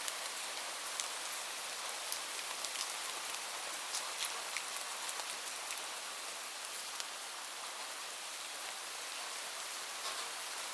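Steady rain falling, an even hiss with many small drops ticking sharply through it.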